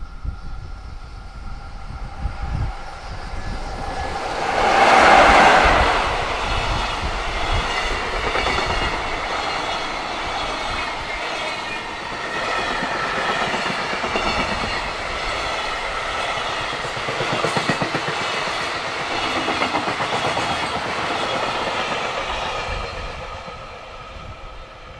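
Container freight train hauled by a JR Freight EF66 electric locomotive passing close by. The locomotive goes by loudest about five seconds in, then a long string of container flat wagons rolls past with steady, rhythmic wheel clatter that fades near the end as the last wagons draw away.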